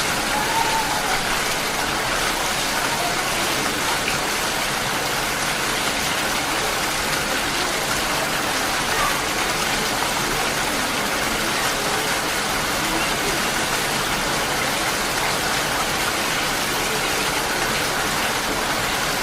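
Heavy rain falling: a steady, even hiss of downpour.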